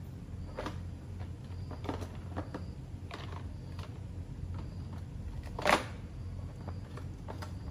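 Scattered light clicks and knocks of parts or tools being handled, with one louder knock near six seconds in, over a steady low hum.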